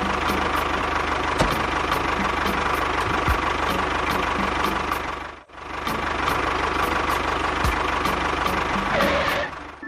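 Small motor of a homemade miniature tractor or bulldozer running steadily, with a regular ticking. The sound drops out for a moment about halfway, then resumes and cuts off near the end.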